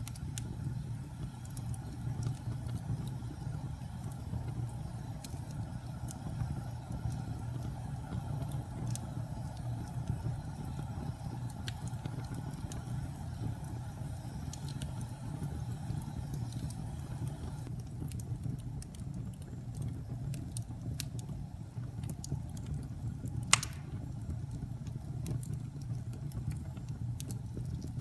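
Wood fire burning in a fireplace: a steady low rumble of flames with scattered sharp crackles and pops, and one louder pop about three-quarters of the way through.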